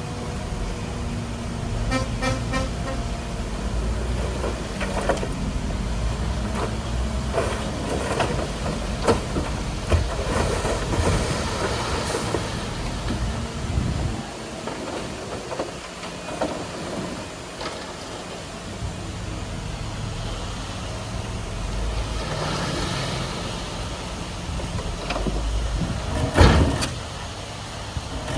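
Bulldozer's diesel engine running under load, with scattered metallic clanks and knocks. The rumble eases off for a few seconds around the middle, and there is a sharp bang near the end.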